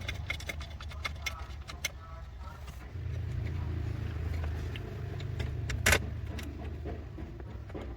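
Light metallic clinks and taps of hand tools and car parts, with one louder sharp clank about six seconds in. A low rumble runs underneath for a few seconds in the middle.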